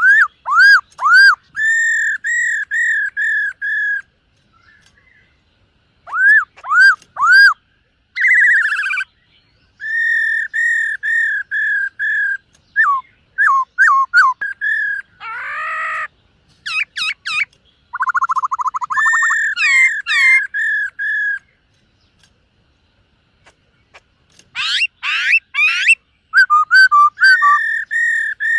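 Black-throated laughingthrush singing: loud, clear whistled phrases, each a quick run of repeated notes, with a few short pauses between runs.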